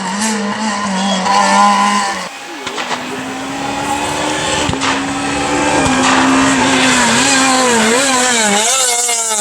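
Renault Clio R3 rally car's naturally aspirated four-cylinder engine running at high revs. About two seconds in the sound drops off sharply, then the engine pitch climbs slowly, and near the end the revs rise and fall quickly several times as the driver works the throttle.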